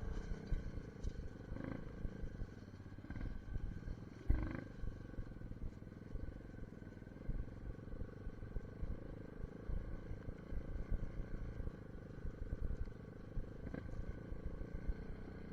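Small dirt bike engine running steadily under irregular rumbling wind buffeting on the microphone, with a few short knocks.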